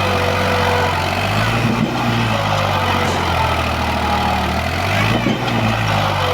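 New Holland 3630 tractor's diesel engine running hard, its pitch dipping and rising a couple of times as it works under load.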